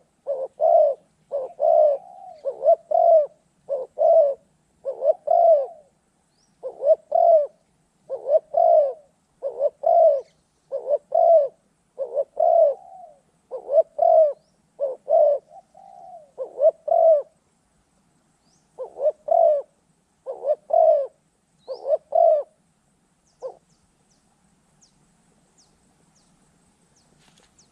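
Spotted dove cooing: a long series of short, low coos about one a second, with brief pauses, stopping about 23 seconds in.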